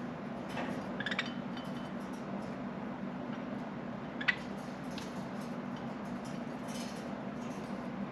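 Pet budgerigars giving a few sparse, short chirps over a steady background hum, with one sharp chirp or click about four seconds in the loudest.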